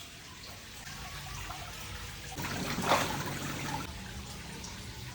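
Water trickling and pouring, with a louder rush of water for about a second near the middle.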